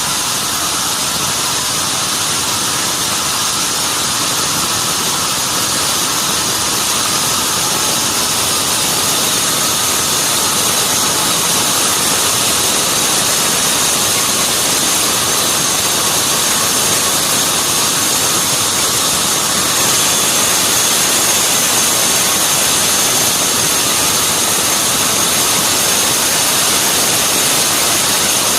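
Sawmill saw machinery running steadily, a loud even noise with a thin high whine over it that strengthens a little about a third of the way in.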